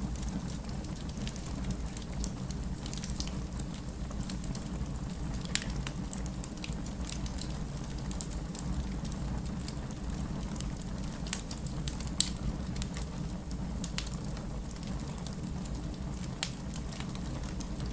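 Wood fire crackling: a steady low rumble of the burning fire with constant irregular snaps and pops of the wood, and a couple of sharper, louder pops, one near the middle.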